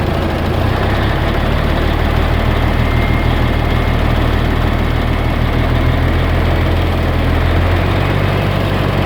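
Mercedes-Benz truck diesel engine held at raised revs for a charging-system test, with the lights and fan on to load the alternator. The engine note steps up about a second in, holds steady, then eases back down near the end.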